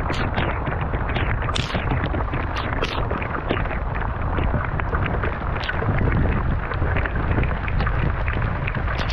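Wind rumbling on the microphone over choppy sea, with water splashing against a kayak and scattered sharp patters of rain.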